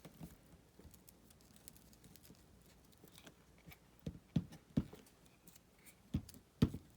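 Paper-craft handling on a tabletop: light ticks and paper rustles, then several soft knocks in the second half as pieces and tools are set down while a paper back is glued on.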